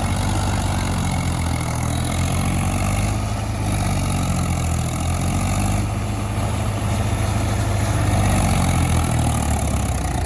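Tractor diesel engine running steadily at a low, even pitch.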